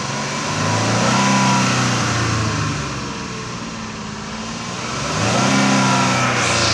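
2007 Dodge Nitro's 3.7-litre V6 engine idling and revved up twice in short blips, the pitch rising and settling back to idle each time; a running test of an engine sold as tested good.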